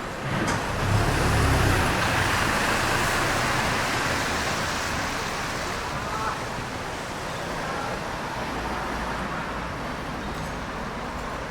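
A road vehicle passing close by on a wet street: tyre hiss on wet pavement with a low rumble, swelling to a peak about a second or two in and then slowly fading, over steady traffic noise.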